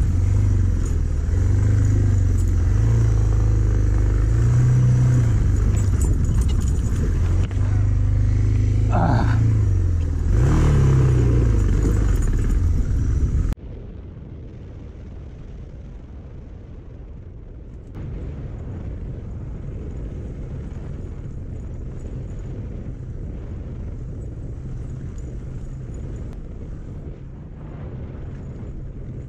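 Suzuki DR650 single-cylinder four-stroke engine running as the motorcycle rides a rough dirt track, its pitch rising and falling as the throttle changes. About 13 seconds in the sound cuts off abruptly to a quieter, steadier engine sound.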